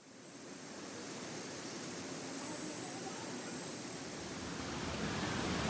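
Steady rush of a waterfall's falling water, fading in from silence at the start and slowly growing louder, with a thin steady high-pitched whine above it.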